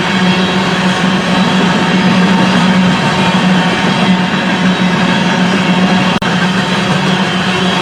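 Diesel locomotive engines running with a steady drone that is cut off briefly about six seconds in.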